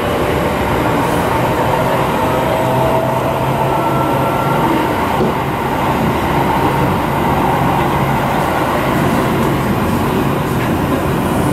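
Seibu 9000 series electric commuter train running between stations, heard from inside the passenger car as a steady rumble of wheels on rail. A faint whine rises slowly over the first few seconds.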